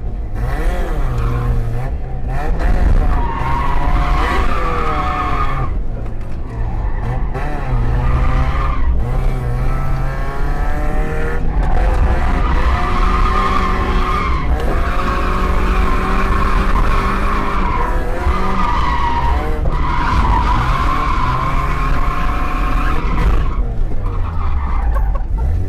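Mazda MX5 1.6's stock four-cylinder engine revving hard while the tyres squeal through long drifting slides. The engine pitch rises and falls with the throttle, with several brief lifts.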